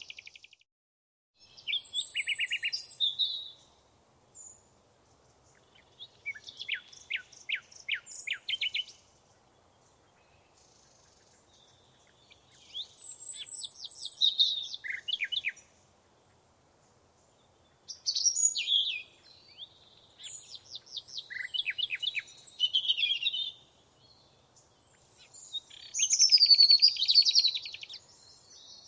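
A songbird singing in separate phrases of rapid trills and quick sweeping notes, about six phrases each two to three seconds long with short pauses between.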